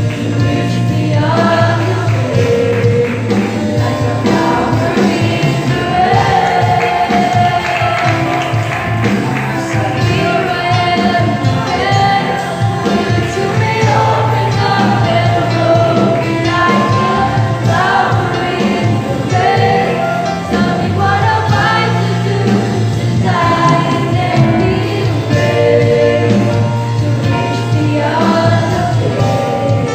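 Youth choir singing a gospel song with instrumental accompaniment.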